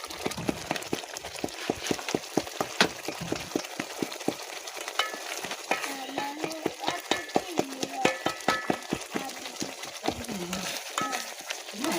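Food frying in hot oil, with a dense run of irregular crackles and clicks over a steady hiss.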